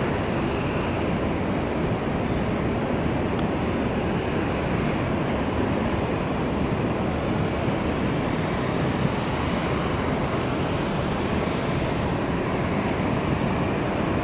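Steady rumble of airliner jet engines with no rise or fall, and two faint short high chirps near the middle.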